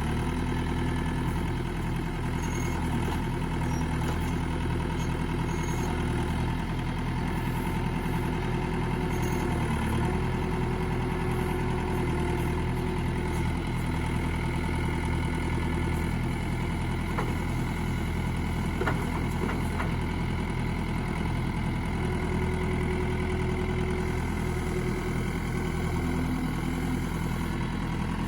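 Tractor engine running steadily at a low, even speed, with a fine regular pulsing in its low note and small changes in pitch now and then.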